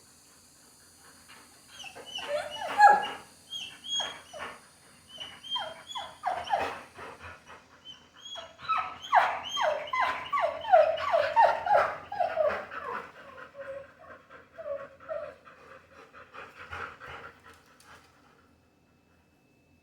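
Dog whining in a long string of short, high calls, many dropping in pitch, louder in the middle and stopping a couple of seconds before the end: distress at being left behind after being readied for a walk.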